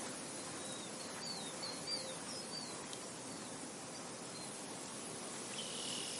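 Wind blowing steadily through a field, an even hiss. Small birds chirp quickly several times in the first few seconds, and a short, steady high note sounds near the end.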